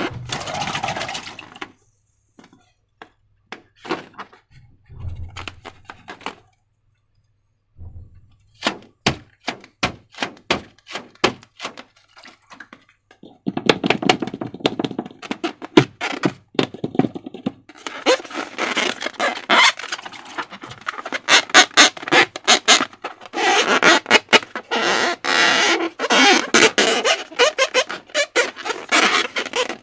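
Slime being squeezed and stretched by hand, giving sticky clicks and small pops. They are scattered at first, then thicken into long runs of wet crackling about halfway through.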